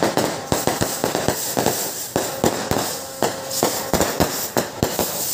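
Fireworks going off: a rapid, irregular run of sharp bangs and cracks, several a second.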